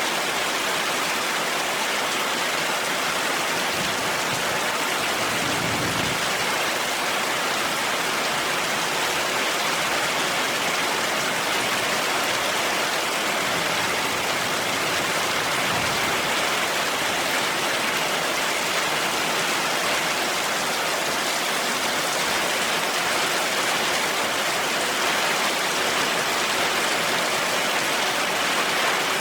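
Heavy rain falling steadily, an even dense hiss. Two faint low rumbles of thunder come about six and sixteen seconds in.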